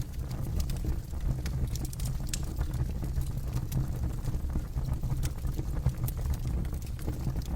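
Campfire burning, with frequent sharp crackles and pops from the wood over a steady low rumble.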